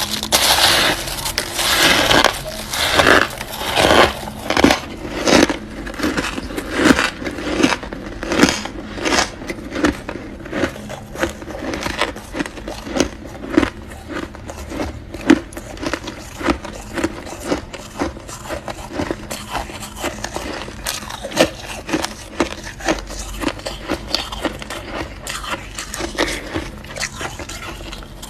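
Freezer frost being bitten and chewed: a run of crisp crunches at about one to two a second, heaviest in the first five seconds.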